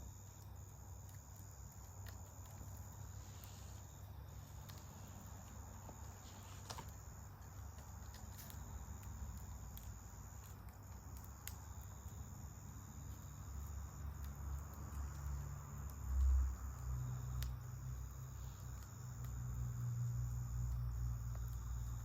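Insects chirring in a steady, high-pitched drone, with a few faint crackles from a campfire. A low rumble builds through the second half, swelling sharply once about three-quarters of the way in.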